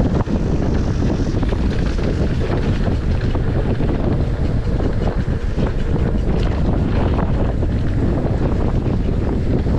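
Steady wind rumbling on the microphone, with irregular crackles through it.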